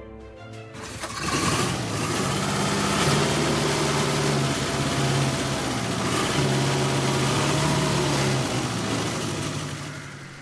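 Car engine sound effect: an engine starts up about a second in and runs steadily as the car drives away, fading out near the end.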